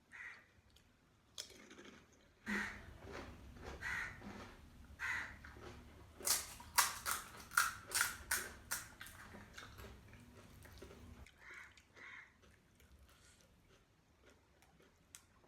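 Close-up eating sounds of crispy panipuri puris being bitten and chewed, with a quick run of about eight sharp crunches in the middle.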